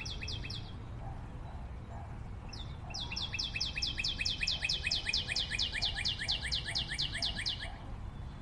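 A bird calling in a fast series of short, high, downward-sliding notes, about five a second: a brief run at the start, then a longer run of about five seconds from around the middle. A steady low rumble lies underneath.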